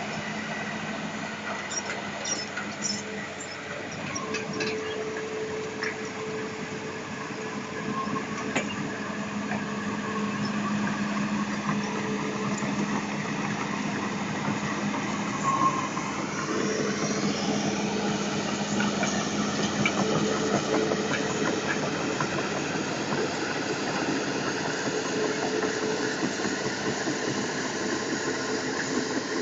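Isuzu 6BG inline-six diesel of a Hitachi Zaxis200-5G excavator running steadily, with a steady whine and hiss over it. Its pitch sweeps a little past halfway, and it is slightly louder in the second half.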